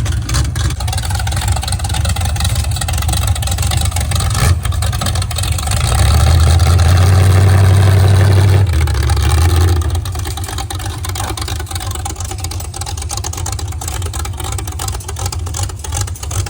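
Show car's engine idling choppy, rising to a held higher-revving rumble about six seconds in and settling back to the choppy idle about four seconds later.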